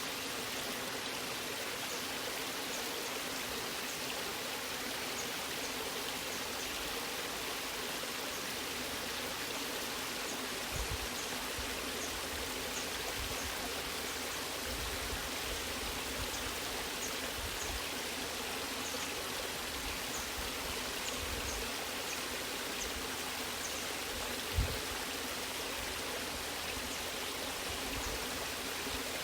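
Natural waterfall: a steady rush of falling and flowing water. A brief low thump comes about 24 seconds in.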